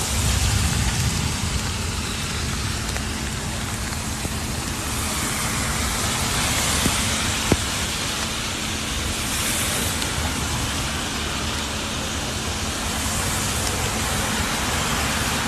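Heavy rain falling steadily as a dense hiss, with road traffic rumbling beneath it. A single sharp click comes about halfway through.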